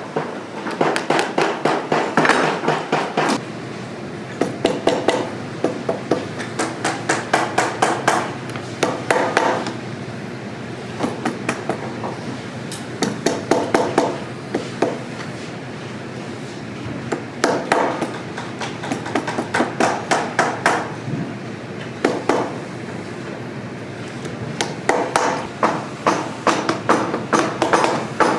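A hammer tapping a boot in quick bursts of rapid strikes with short pauses between them, as in a cobbler's work during a resole.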